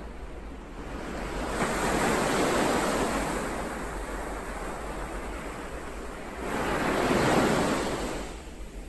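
Ocean waves, two in turn. The first builds about a second in and slowly fades; the second swells near the end and dies away.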